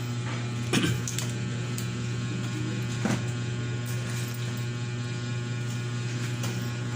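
Steady low electrical mains hum with faint higher overtones, broken by a few light clicks about a second in and again about three seconds in.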